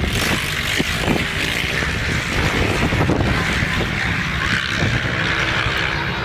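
Motocross bike engine running, half buried in wind buffeting the microphone.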